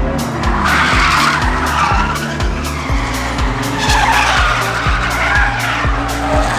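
Ford AU Falcon drift car sliding with its tyres squealing, the squeal swelling twice. Background music with a steady beat plays over it.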